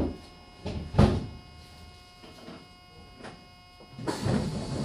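Meitetsu 6800 series electric train at a station stop, just halted. It gives two sharp clunks, then a steady hum from the car's equipment at standstill. About four seconds in, a louder rush starts as the passenger doors begin to open.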